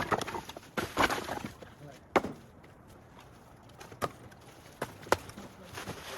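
Split firewood pieces being handled and stacked, wood knocking on wood in sharp, irregular clacks: a quick cluster about a second in, then single knocks every second or so.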